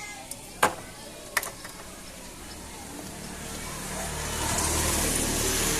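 Two sharp knocks, then a motor vehicle going past, its engine and road noise swelling to a peak near the end.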